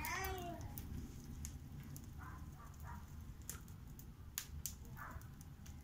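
Wood fire burning in a newly built fireplace: scattered sharp crackles over a steady low rumble of the flame drawing. A pitched, voice-like glide opens it, and a few short high-pitched calls come and go.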